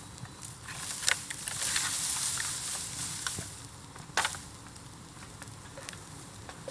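Bamboo bonfire crackling with scattered pops, a hiss that swells for a couple of seconds from about a second in, and one sharp loud crack about four seconds in.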